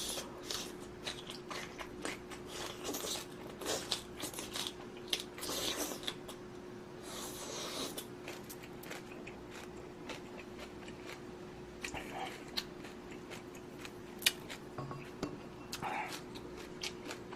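A person eating close to the microphone: chewing instant ramen noodles and rice with many small wet mouth clicks, thickest in the first half and sparser later. A faint steady hum runs underneath.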